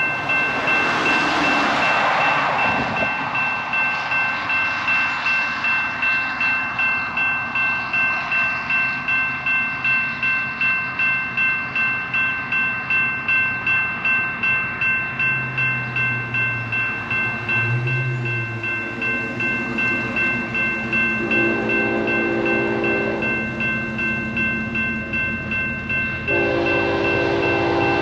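Railroad grade-crossing warning bells ringing steadily at about two strokes a second. A BNSF locomotive horn joins with a long blast about 21 seconds in and another starting near the end.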